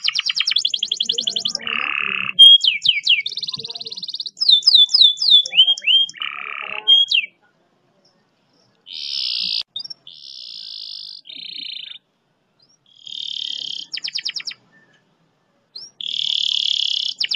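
Canary singing a fast 'roll' song: phrases of rapid repeated notes and buzzy trills, with a few quick falling whistles, broken by two pauses of about a second and a half.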